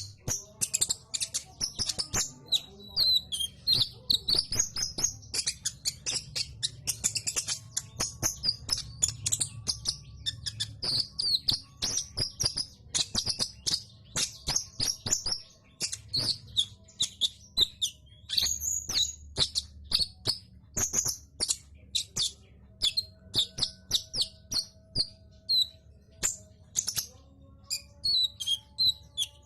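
A kolibri ninja sunbird singing vigorously: a long, unbroken run of quick, high chirps and twitters, many notes a second.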